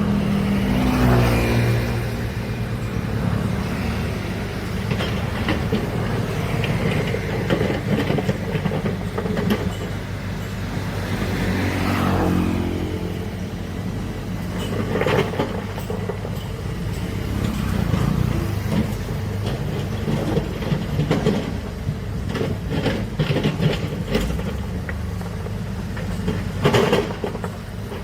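Large diesel engine of heavy earthmoving machinery running steadily, its note rising and falling twice as it revs under load, with several sharp metallic clanks in the second half.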